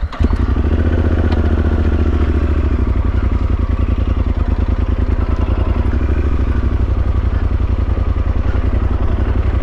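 Motorcycle engine running at a steady cruising speed, heard from on the bike, a constant low drone with a fine even pulse that holds without any change in speed.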